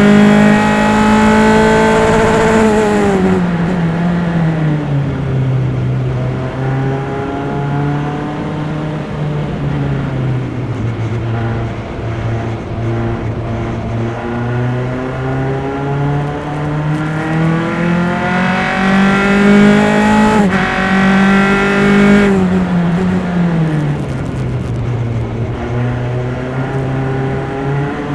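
Single-seater formula race car's engine heard onboard, running loud and steady: it drops in pitch over the first few seconds, climbs slowly and unevenly for about fifteen seconds, drops again a little past twenty seconds, then starts to climb again.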